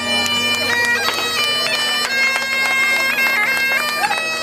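Bagpipe tune: a steady drone under a chanter melody that steps quickly between held notes.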